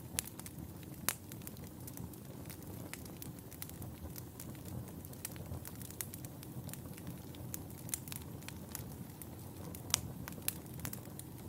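Wood fire burning in a fireplace: a steady low rumble of flames with frequent sharp crackles and pops, a few louder snaps about a second in and near the end.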